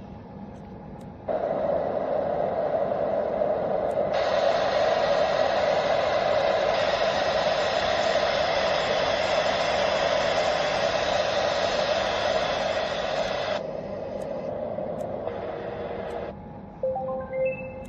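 Dreamegg Pocket Sleep 1 mini white noise machine playing steady noise tracks and switching abruptly between them. A noise starts about a second in and turns brighter and hissier at about four seconds. It cuts off near fourteen seconds to a quieter hiss, and near the end there is a quick run of short beeping tones.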